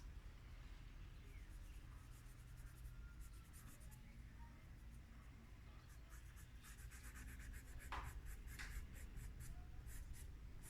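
Faint scratching of a dry drawing stick on paper: many short, quick strokes as fine details are worked in, growing busier in the second half, with one firmer stroke about eight seconds in.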